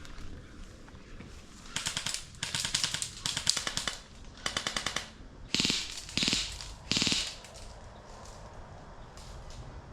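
Airsoft guns firing on full auto: four rapid bursts of clicking shots, then three shorter bursts.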